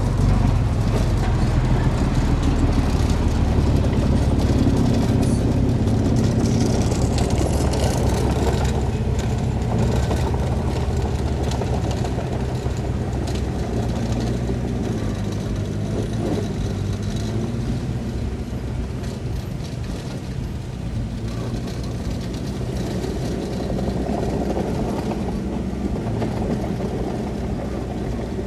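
Heavy diesel earthmoving machinery running steadily, its engine note rising and falling a little, with scattered clanks.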